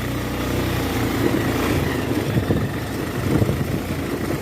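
Motorcycle engine running under load as the bike climbs a slope on a dirt track. A steady hum in the first second gives way to an uneven low rumble.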